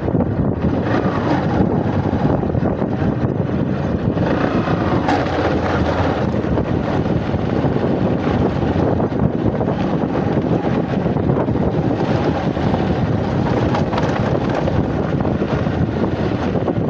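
Bajaj Platina motorcycle's single-cylinder engine running steadily while the bike is ridden, with heavy wind noise on the microphone.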